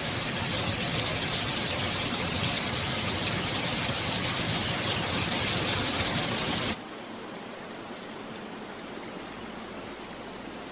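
Rain falling as a steady, dense hiss; about two-thirds of the way in it cuts suddenly to a much quieter, softer hiss of water.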